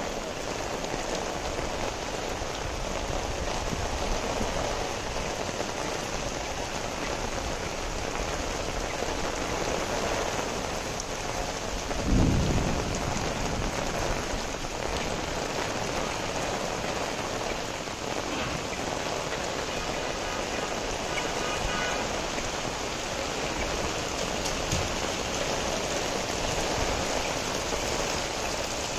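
Heavy rain pouring onto a wet street, a steady hiss. About twelve seconds in, a short low rumble of thunder rises above it.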